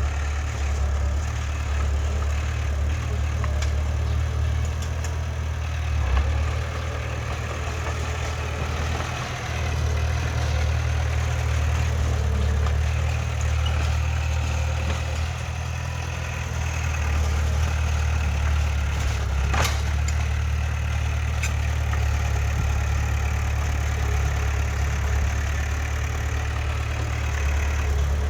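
Heavy diesel engine of earthmoving machinery, a dump truck or bulldozer, running steadily with a low drone. A single sharp click comes about two-thirds of the way through.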